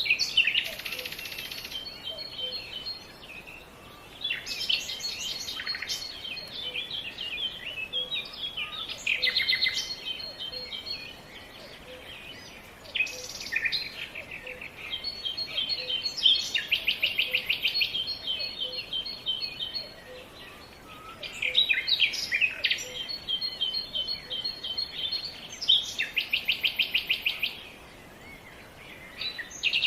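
Songbirds singing: bursts of quick chirps and fast trills every few seconds, overlapping one another, over a faint steady outdoor background.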